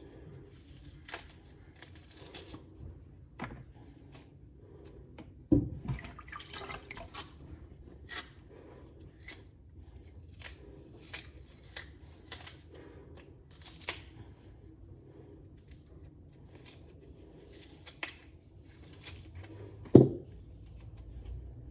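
Intermittent light clicks and taps, with two louder knocks about five and a half and twenty seconds in.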